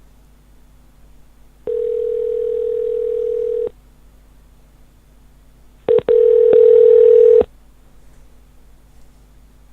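Telephone ringback tone on the caller's end of an outgoing call: a steady tone rings twice, about two seconds, then a pause of about two seconds, then about a second and a half with a couple of short breaks at its start. The called line is ringing and not yet answered.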